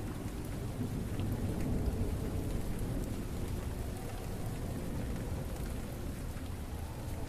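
Steady rain falling, with a low rumble of thunder.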